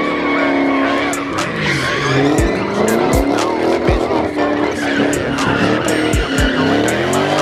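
Car engines revving and tyres squealing in burnouts at a street takeover, over hip-hop music with deep bass thumps.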